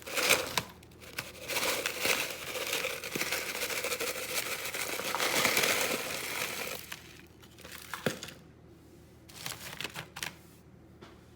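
Ice being put over shrimp in a bowl: about seven seconds of dense rustling and rattling, then a few scattered knocks and clicks.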